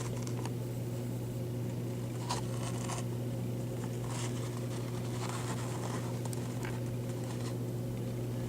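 A steady low electrical hum, with a few faint scattered scrapes and clicks of something being handled.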